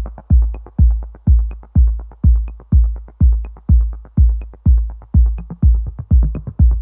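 Background electronic music: a bare, deep drum-machine kick beat at about two beats a second, with faint high ticks over it.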